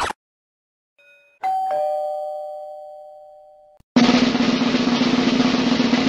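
A brief scratchy burst of noise cuts off just as the clip begins. About a second and a half in, a two-note descending chime like a doorbell ding-dong rings and slowly fades. At about four seconds a snare drum roll starts and keeps rolling.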